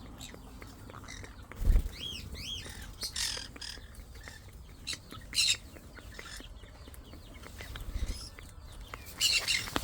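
Parrots calling: a pair of arching whistled chirps about two seconds in, then harsh squawks around three, five and nine seconds in. A single low thump, the loudest sound, comes just before the chirps.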